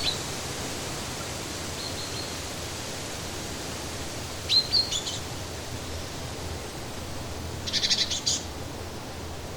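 Songbird chirps over a steady rushing background noise: a few short chirps near the start and again about halfway through, then a quick burst of rapid twittering near the end.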